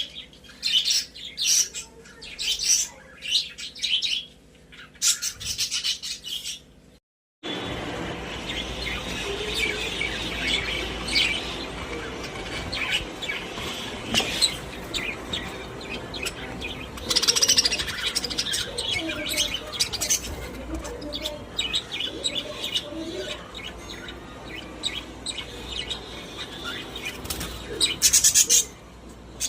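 Budgerigars chirping and chattering in many short, high calls. The sound drops out briefly about a quarter of the way through, after which the chatter is denser over a steady background hiss.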